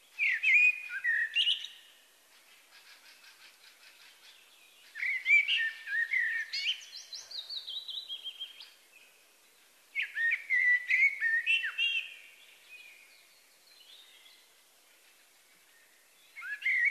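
A songbird singing: four whistled, warbling phrases of two to three seconds each, separated by pauses of a few seconds.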